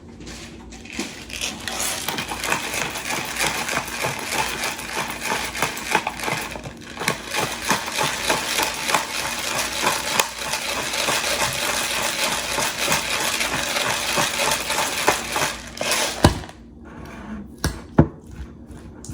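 Pepper grinder grinding pepper: a long run of fine, rapid crackling clicks, with a brief break partway through. A few separate knocks follow near the end.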